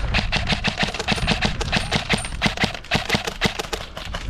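Quick footsteps, several a second, with short sharp impacts on the ground.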